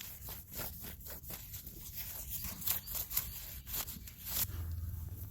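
Rasping back-and-forth strokes of a hand saw cutting wood, about three a second, stopping about four seconds in, after which a low steady hum starts.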